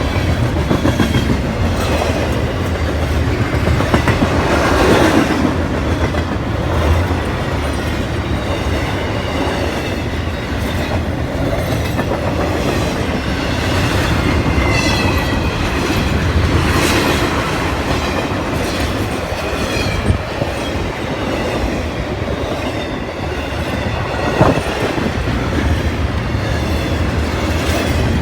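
CSX intermodal freight train rolling past close by: a continuous loud rumble and clatter of wagon wheels on the rails, with brief high-pitched wheel squeals now and then.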